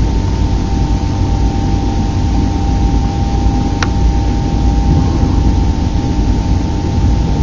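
ICE 3 high-speed train running, heard from inside the passenger compartment: a steady low rumble of running noise with a steady high hum over it, and one sharp click about four seconds in.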